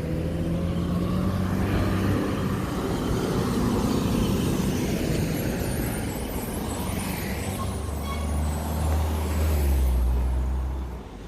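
Street traffic with a large vehicle's engine running close by: a low steady drone that swells toward the end, then falls away sharply as it passes.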